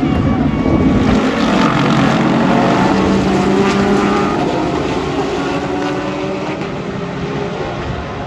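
Race car engines passing at speed on the circuit, several engine notes overlapping, loud and then fading away.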